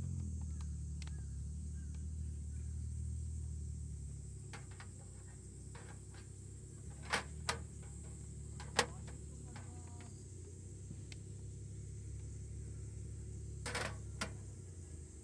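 A handful of short, sharp clicks and knocks over a low steady hum: two close together about seven seconds in, a louder single one near nine seconds, and another pair near fourteen seconds.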